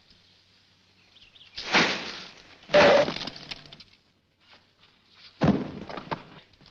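Three loud crashing impacts with a glassy, breaking quality. The second, just under three seconds in, is the loudest; each crash rattles off over most of a second. These are slapstick crash sound effects in a comic fight.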